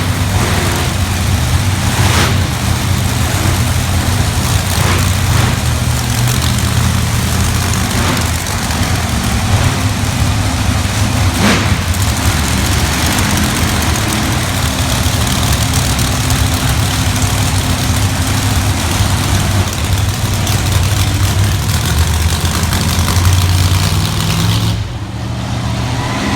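Monster truck engines running steadily, a loud deep rumble with a wash of noise over it; it eases off slightly near the end.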